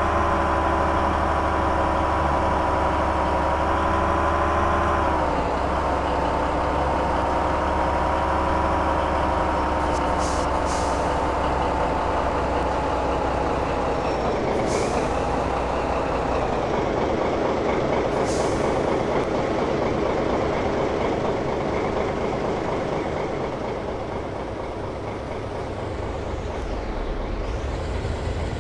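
A motor running with a steady whine over a low hum. The whine dips slightly in pitch about five seconds in, then slides down and fades around the middle, leaving a rougher running noise. A few short hisses come through in between.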